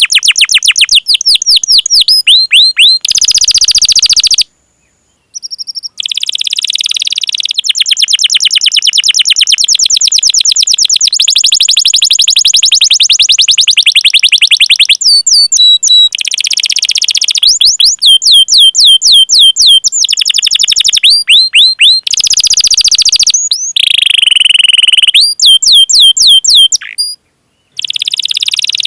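Domestic canary in full song: fast rolling trills of rapidly repeated sweeping notes alternating with runs of sharp 'cuit cuit' chirps. The song breaks off briefly about five seconds in and again near the end.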